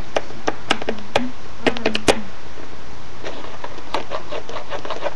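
Small plastic toy figures clicking and tapping on a hard surface as they are moved about: several sharp taps in the first two seconds, then a quicker run of softer ticks, over a steady hiss.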